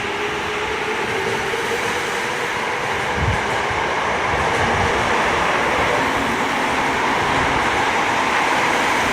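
Tokyo Metro 05 series subway train pulling out of the station: its traction motor whine rises in pitch as it accelerates, under steady rail and running noise that grows louder, with a brief low thump about three seconds in.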